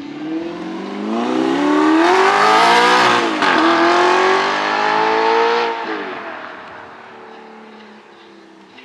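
A car engine revving hard as the car accelerates past. The pitch climbs, drops once about three seconds in as it shifts gear, climbs again, then falls away and fades as the car drives off.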